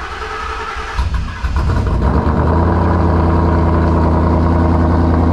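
Ford Mustang engine on a cold start: just fired, it flares up over the first couple of seconds, then settles into a steady, loud fast idle.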